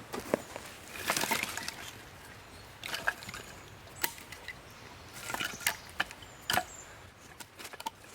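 Dry wood cracking and rustling in irregular bursts, with scattered sharp clicks.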